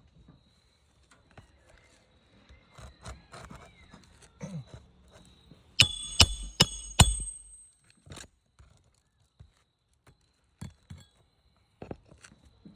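A hammer driving roofing nails into shingles: four quick ringing blows about six seconds in, then a few lighter knocks and another ringing blow at the end, with scattered handling and rustling of shingles before.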